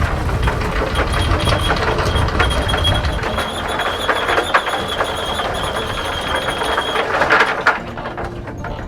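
Electric anchor windlass hauling in the anchor chain: a motor running with a steady high whine and the chain clattering over the gypsy. It stops abruptly near the end as the anchor comes up.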